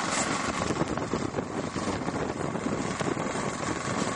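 Wind rushing over the camera microphone, a steady noisy rush.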